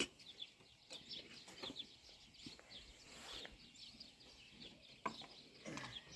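Birds chirping faintly outdoors: many quick, high chirps repeating throughout, with a few soft knocks near the start and about five seconds in.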